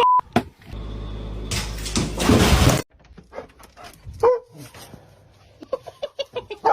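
A dog's short whining yips and barks, one about halfway through and then a quick run of them near the end. They follow a brief beep and about two seconds of loud rushing noise.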